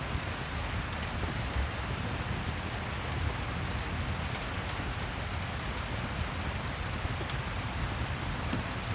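Steady rain ambience: an even hiss of falling rain, with a few faint high crackles mixed in from the accompanying fireplace sound.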